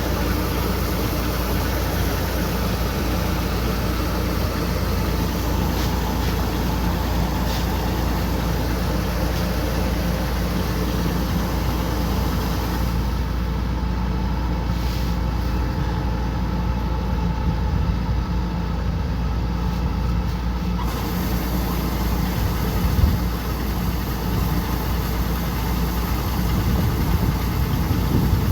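Kubota combine harvester's diesel engine running steadily, a continuous mechanical drone.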